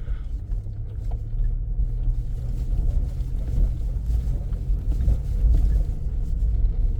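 Car driving along a rough dirt road: a steady low drone of engine and tyres.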